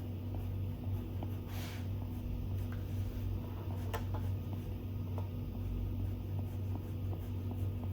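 Stylus tapping and sliding on an iPad's glass screen: light ticks, a short swish about one and a half seconds in and a sharper tap about four seconds in, over a steady low hum.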